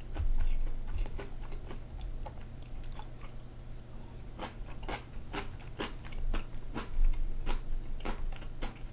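Close-miked chewing and mouth sounds of a person eating noodles and side dishes: irregular wet clicks and smacks, with a steady low hum underneath.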